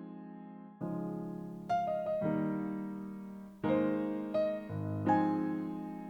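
Background piano music: slow chords and single notes, each struck and left to fade before the next.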